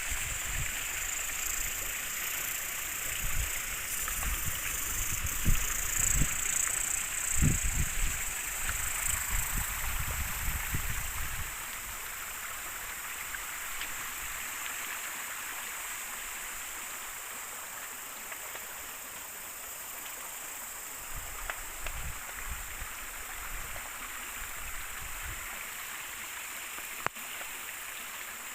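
River water flowing in a steady rush, with irregular low bumps over the first ten seconds or so, after which it goes a little quieter. A single sharp click comes near the end.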